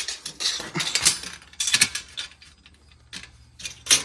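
Metal tape measure clicking and rattling in a few short clusters as it is handled and set against a steel pipe exhaust stack, with a quieter stretch in the middle.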